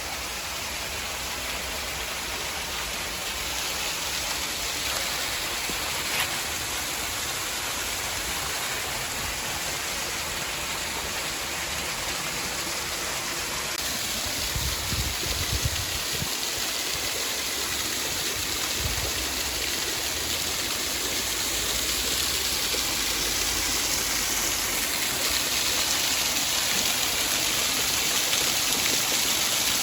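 Small woodland waterfall rushing and splashing steadily, growing slightly louder through the second half. A few brief low thuds come about halfway through.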